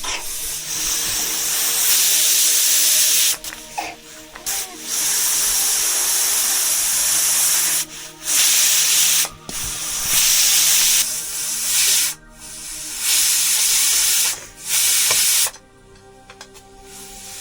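Loud hissing spray that comes in about six bursts, each starting and stopping abruptly.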